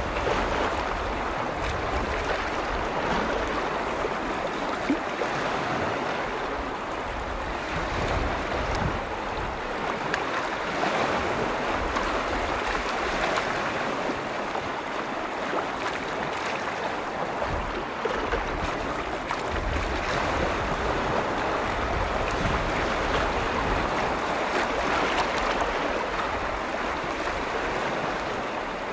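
Small lake waves washing continuously against the shore, gently rising and falling, with low wind rumble on the microphone.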